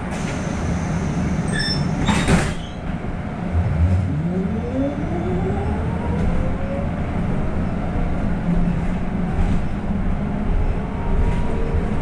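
City bus interior: the bus rumbles, a short hiss comes about two seconds in, and then a whine rises steadily in pitch over several seconds as the bus pulls away and speeds up.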